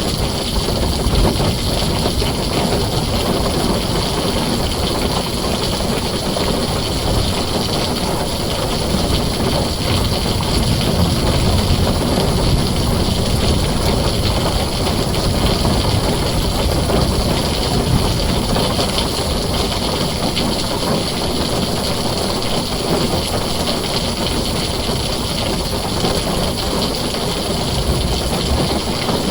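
Heavy rain falling on a tin roof: a steady, dense hiss with a strong low rumble underneath.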